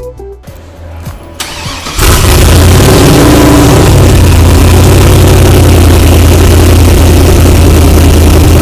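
A car engine starts about two seconds in and settles straight into a loud, steady idle with a deep rumble.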